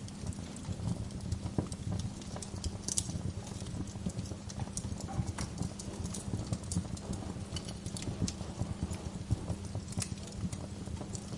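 Wood fire crackling in a fireplace: frequent irregular pops and snaps of burning logs over a steady low rumble of the flames.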